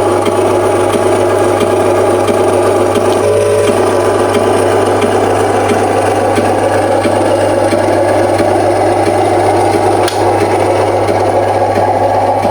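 Radio-controlled model truck's electric drive and gearbox running, a steady rasping grind over a constant low hum, with a single click about ten seconds in.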